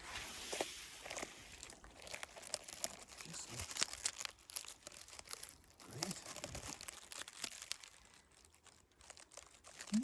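Dry twigs and vegetation rustling and crackling as a bush is handled and pushed aside, in irregular runs of small crackles that die down briefly near the end.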